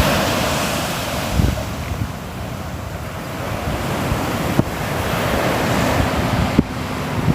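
Sea waves washing onto the shore, the surf swelling and ebbing, louder at the start, dipping, then building again in the second half, with a few low thumps of wind on the microphone.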